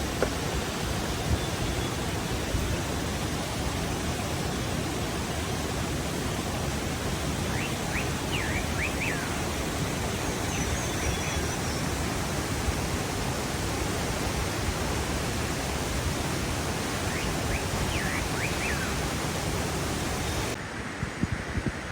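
Waterfall rushing in a steady, even roar of water, with a couple of brief clusters of high chirps. The sound drops abruptly and turns duller near the end.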